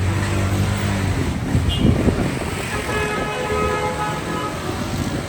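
Street traffic: a motor vehicle's engine running close by, with a steady pitched tone sounding for about a second and a half in the middle.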